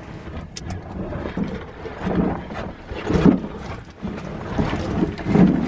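Irregular scraping, rustling and scuffing close to the microphone, with scattered clicks, as someone moves through a cave passage. It swells louder about two, three and five and a half seconds in.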